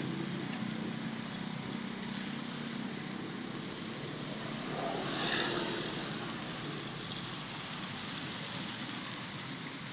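Steady outdoor road-traffic noise, with a vehicle passing about five seconds in.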